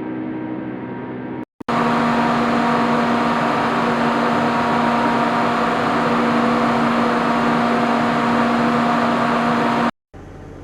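Steady machine whir with a strong low hum running through it, lasting about eight seconds and cutting off suddenly. It is set between the end of one quieter humming recording just before it and the start of another just after.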